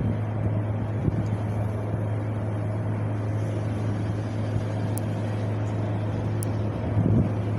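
Steady wind blowing with a low rumble, gusting against the microphone briefly about a second in and again near the end.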